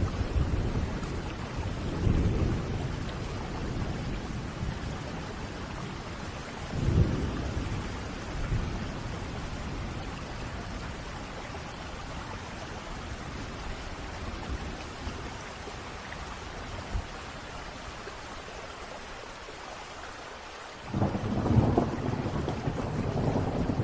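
Steady rain falling through a thunderstorm, with low rolls of thunder about two and seven seconds in. After a quieter lull, a sudden, louder thunder rumble breaks near the end.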